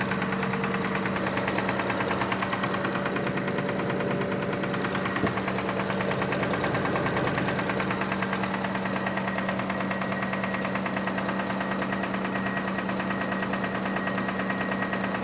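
2005 Kia Sorento engine running steadily with a fast, regular knocking tick: the engine noise whose source is still undiagnosed. A single sharp click about five seconds in.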